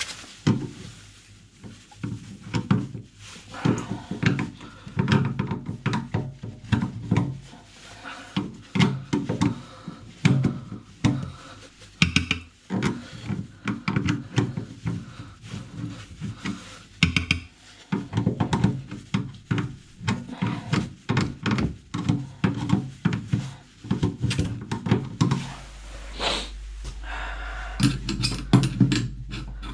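Irregular knocking, clicking and scraping of a screwdriver on a plastic sink trap and waste outlet while a clogged outlet is being cleared. A low hum comes in near the end.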